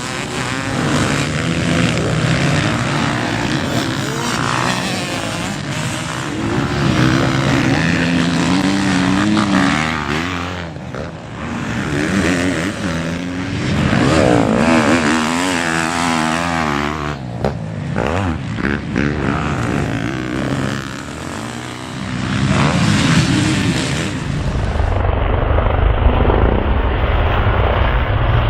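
Motocross bike engines revving hard and falling back again and again, the pitch climbing and dropping through the gears. Near the end a deep low rumble takes over and the high end goes dull.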